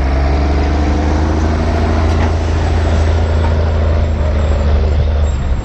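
Minneapolis-Moline 1000 tractor's engine running hard under load as it pulls the sled, a steady deep drone that eases off near the end.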